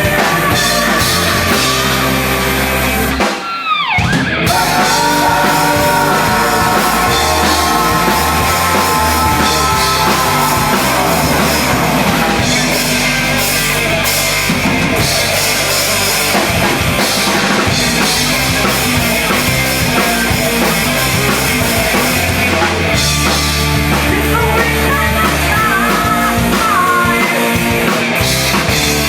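Live hardcore punk band playing loud: distorted guitars, bass and drum kit with yelled vocals, the music breaking off for a moment about three seconds in before the band comes back in.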